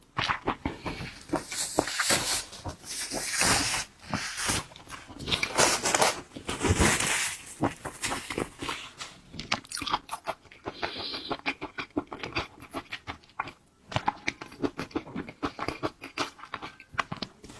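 Close-miked eating of shellfish: a dense run of sharp crunches and bites with chewing in between.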